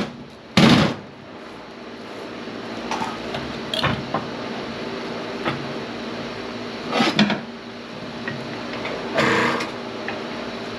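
A loud metal clank near the start, then a hydraulic press running with a steady hum as it pushes through transformer scrap, with a few knocks and clanks along the way.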